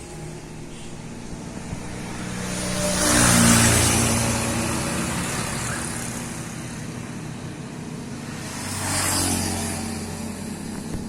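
Motor vehicle engines running, with two swells that rise and fade, the louder about three and a half seconds in and a smaller one about nine seconds in.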